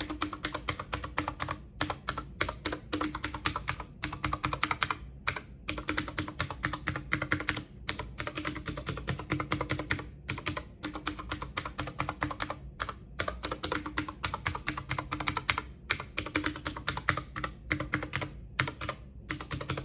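Rapid typing on a computer keyboard: fast runs of key clicks broken by short pauses.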